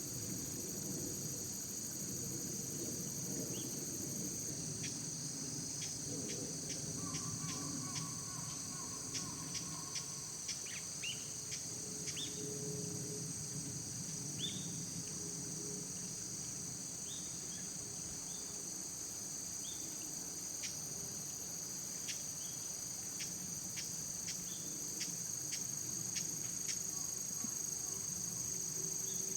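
Steady, high-pitched outdoor chorus of crickets and other insects, with many short chips scattered through and a low rumble underneath.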